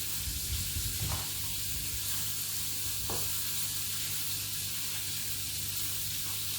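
Meatballs frying in hot oil in a pan, a steady sizzling hiss with a low hum under it and two small clicks, about one second and three seconds in.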